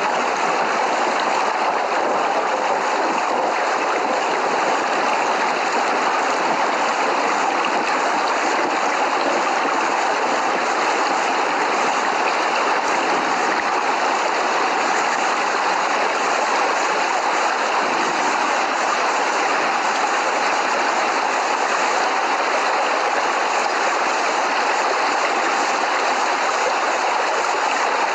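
Steady rain, an even rushing hiss that does not change.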